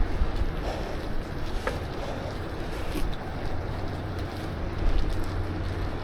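Wind buffeting the microphone of a camera riding on a moving bicycle: a steady low rumble, with a couple of faint ticks.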